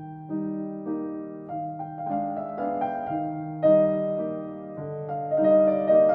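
Piano playing a slow instrumental Christmas piece, with single notes and chords struck every half second or so and left to ring.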